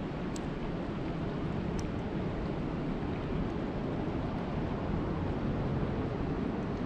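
Steady rain: an even hiss with a heavy low rumble, with a couple of sharp drip ticks, one about half a second in and another near two seconds.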